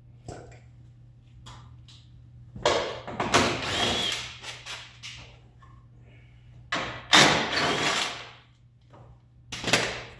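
A power tool run in three bursts: a long one about two and a half seconds in, the loudest about seven seconds in, and a short one near the end, with a few small knocks between and a steady low hum underneath.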